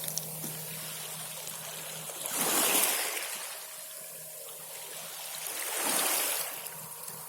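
Sea of Okhotsk waves washing onto the shore, two surges about three and a half seconds apart, each swelling and fading over about a second, over a faint steady low hum.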